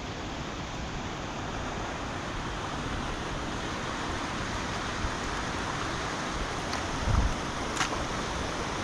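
Rain-swollen river rushing steadily in full spate, a constant roar of fast water. There is a brief low thump about seven seconds in.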